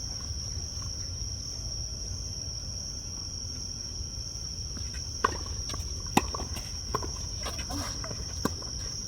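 Tennis ball struck and bouncing during a rally: sharp pops about a second apart, starting about five seconds in. Underneath runs a steady, high-pitched insect drone.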